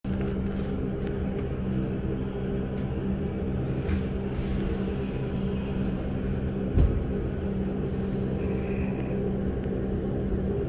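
Interior of a Keihan 8000 series train car standing at a platform: a steady electrical hum from the stationary car's equipment, with a single low thump about seven seconds in.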